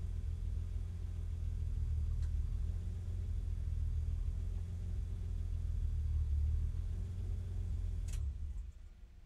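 BMW E30 race car's engine idling steadily at about 800 rpm, heard from inside the cabin. About 8 seconds in there is a sharp click, and the engine then cuts off as it is shut down.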